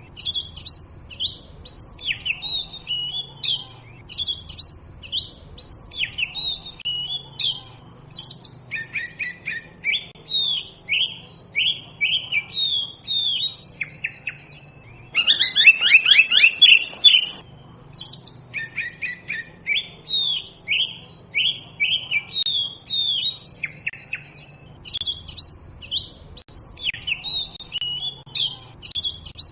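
Oriental magpie robin singing: a continuous string of short, varied whistled and chirping phrases. About fifteen seconds in comes a louder, fast run of notes lasting about two seconds.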